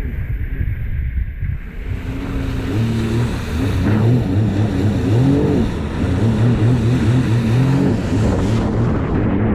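Motorized watercraft engine revving, its pitch rising and falling again and again, over a steady rush of water and wind. The engine note comes in about two seconds in.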